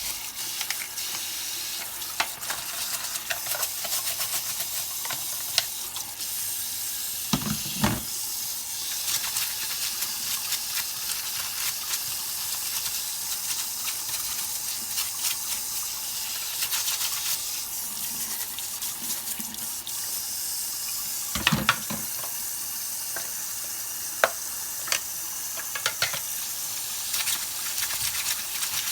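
Water spraying and splashing in a steady hiss, with scattered clicks and two heavier knocks, one about eight seconds in and one about twenty-one seconds in.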